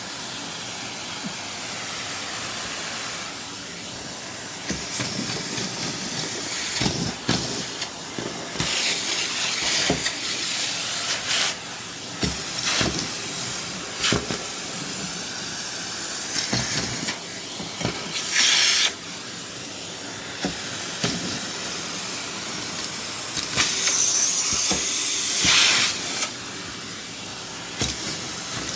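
Henry canister vacuum cleaner running with a steady hiss of suction, with frequent clicks and knocks as pieces of snack food are sucked up the hose, and a few louder surges of hissing airflow.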